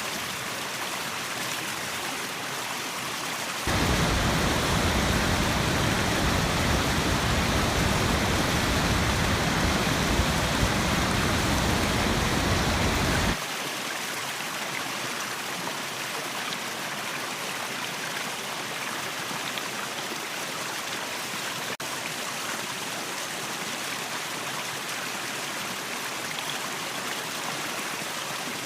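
Waterfall water rushing steadily. About four seconds in it turns suddenly louder and deeper for roughly ten seconds, then drops back just as abruptly to the lighter rush.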